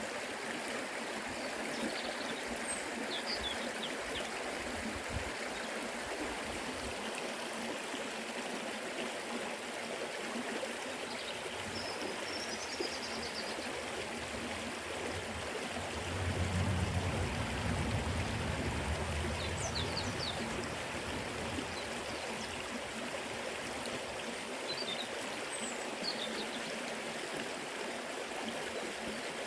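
Forest river flowing steadily over rocks: an even rushing and trickling of water. A few faint high chirps come and go, and a low rumble swells for a few seconds about sixteen seconds in.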